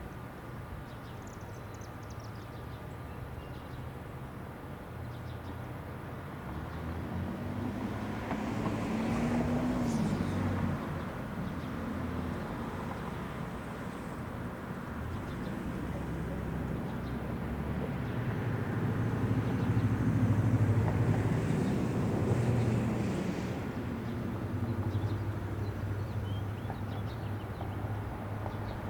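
Outdoor road traffic: a steady low rumble with two vehicles passing, each swelling and fading, the first about a third of the way in and the second, louder, past the middle.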